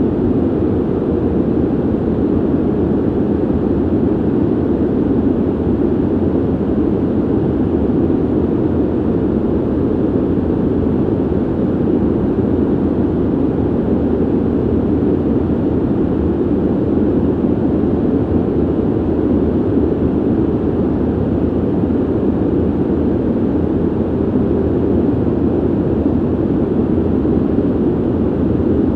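Steady ventilation noise: an even, unchanging whoosh of moving air, deep and muffled, with most of its weight in the low-mid range and little hiss.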